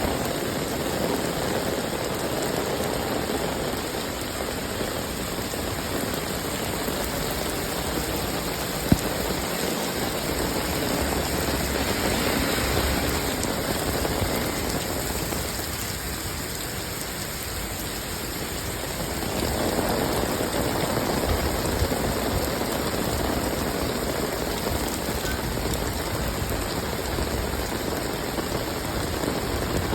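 Steady rainfall, a dense even hiss that swells and eases slowly, with a single sharp tick about nine seconds in.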